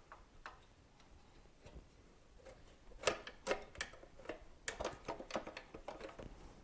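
A quick, irregular run of light clicks and taps, as of hand tools and small metal parts being handled during a motorcycle teardown, starting about three seconds in and stopping shortly before the end.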